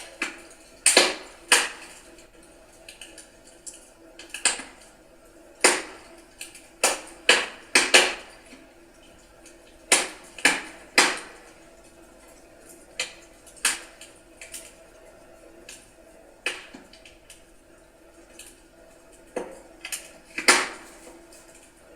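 Wood fire crackling in a fireplace: irregular sharp pops and snaps of burning logs, some single and some in quick clusters, over a faint steady background.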